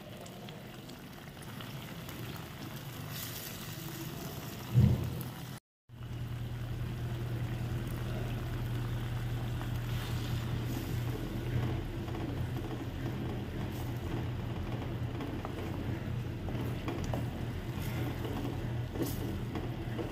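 Spinach paste frying in a pan and being stirred with a wooden spatula: a soft, even sizzle over a steady low hum. There is a single thump about five seconds in, just before the sound cuts out for a moment.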